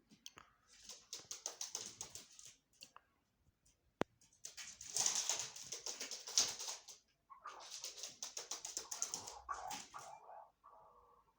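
Chukar partridges calling in three bursts of rapid, high-pitched repeated notes, with a single sharp click about four seconds in.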